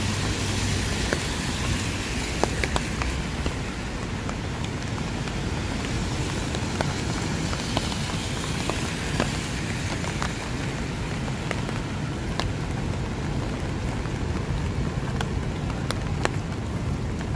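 Steady rain with scattered sharp raindrop ticks, over city traffic noise. A passing vehicle fades out over the first few seconds.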